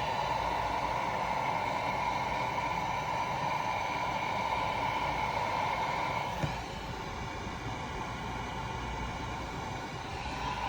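Heat gun blowing steadily, shrinking heat-shrink tubing over a crimped battery-cable lug. About six seconds in there is a click; after it the sound drops a little and its faint whine stops, then it rises again near the end.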